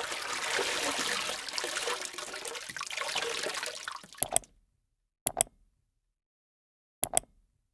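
Heavy rain with gusting wind, a dense steady rush that cuts off abruptly about four seconds in. Then three short double clicks in dead silence.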